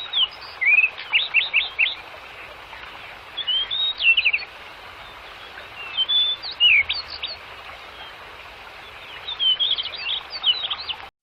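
Songbirds chirping in four short bursts of quick, high, sweeping notes a few seconds apart, over a steady outdoor hiss.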